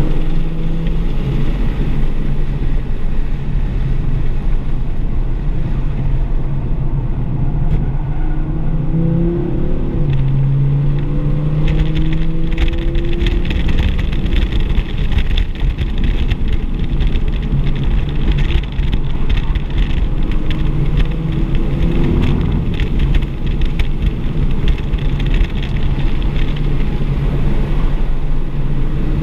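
2024 Audi RS3's turbocharged five-cylinder engine heard from inside the cabin while lapping a track, its pitch rising under acceleration and dropping off again through the corners. A rougher rushing noise joins in through the middle stretch.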